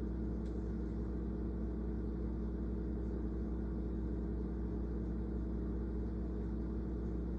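A steady low mechanical hum with several fixed low tones, unchanging throughout.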